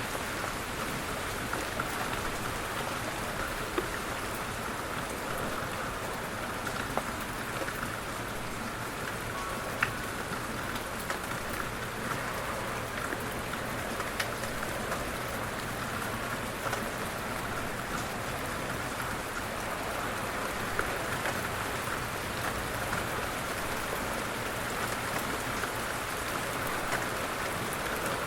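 Light rain falling steadily, an even patter with scattered louder drops.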